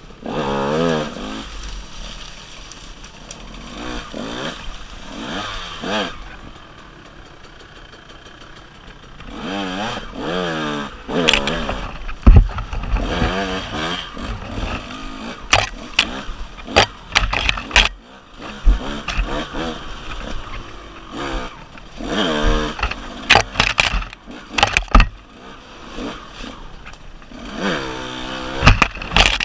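KTM 150 two-stroke dirt bike engine revving up and down repeatedly as it is ridden, pitch climbing and falling with the throttle, with frequent sharp knocks and thumps.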